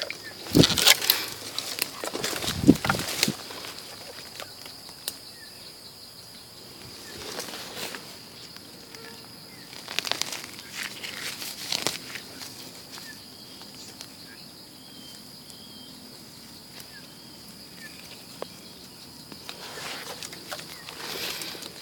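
Rustling and crunching of dry leaf litter and undergrowth in short bursts, from footsteps and hands moving through the forest floor, over a steady high-pitched insect drone with a few faint bird chirps.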